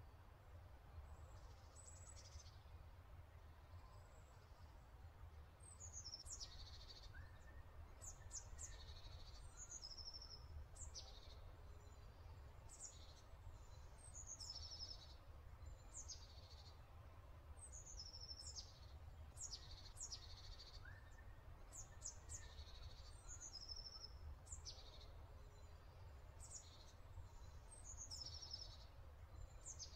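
Faint birdsong: many short, high chirps and calls, few at first and frequent from about a fifth of the way in, over a low steady hum.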